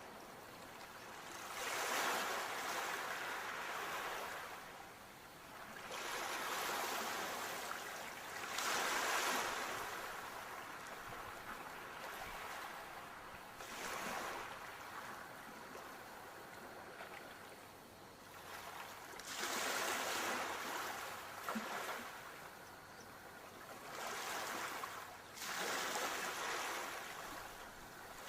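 Sea waves breaking and washing up the shore. The surf swells and falls away again every few seconds.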